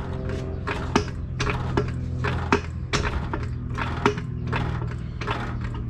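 Floor jack being pumped, its handle strokes clicking about twice a second, over a steady low hum.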